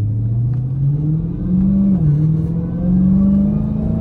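Dodge Hellcat's supercharged V8 accelerating, its note climbing steadily, dropping with an upshift about two seconds in, climbing again and dropping with another upshift at the end.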